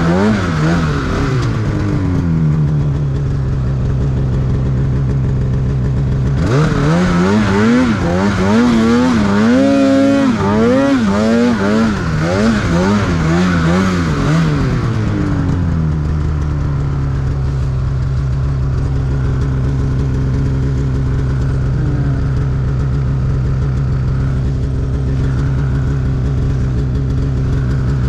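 Snowmobile engine running steadily for the first few seconds, then revved up and down repeatedly for about eight seconds, its pitch rising and falling with each throttle surge, then settling into a steady, even, low running note for the rest.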